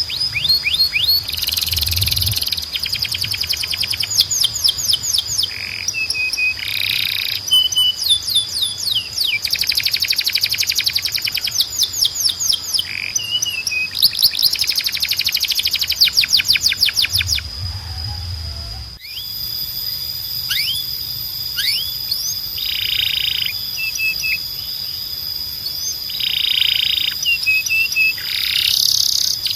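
Male canary song: long series of fast repeated notes and rolls, broken by short buzzy bursts, over a steady high-pitched ringing tone. About two-thirds of the way through the recording cuts abruptly to another stretch of song.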